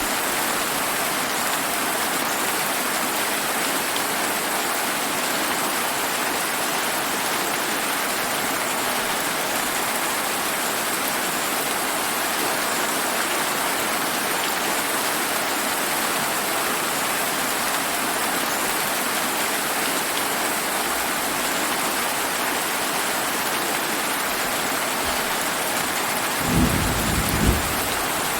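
Steady summer rain falling hard. Near the end comes a short, low rumble of thunder lasting about a second.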